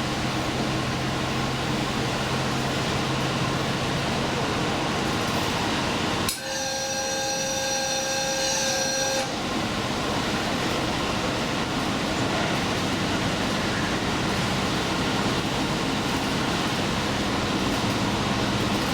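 Limited express train running at speed, a steady rumble of wheels on rail. About six seconds in, a steady sound of several held tones sounds for about three seconds over it.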